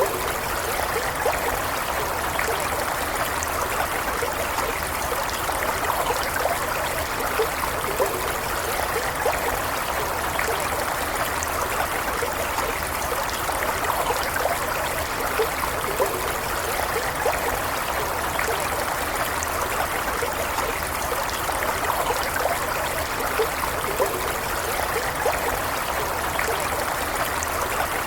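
Stream water running steadily, with fine bubbling and trickling over a continuous rush.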